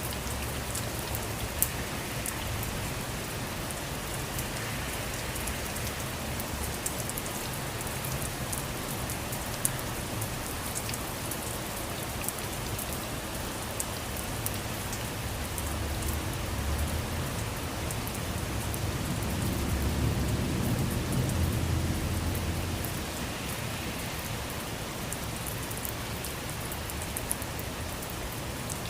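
Steady rain falling, with scattered sharp drips and drop splashes. About two-thirds of the way through, a low rumble swells and fades over a few seconds.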